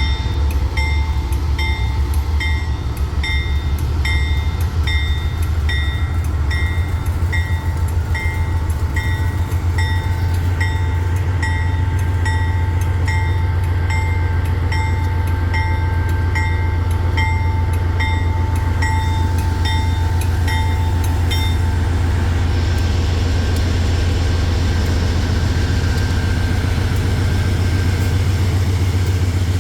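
Diesel freight train running past, with a steady low engine rumble. A regular ticking about twice a second and a steady high tone run over it and stop a little over 20 seconds in, after which a rushing hiss from the moving train takes over.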